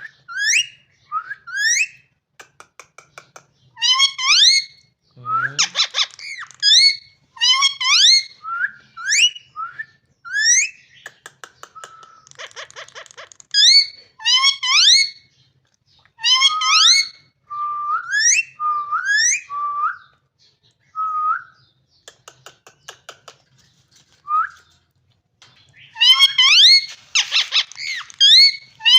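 A parrot whistling: repeated phrases of short rising whistled notes, broken now and then by brief rapid rattling trills.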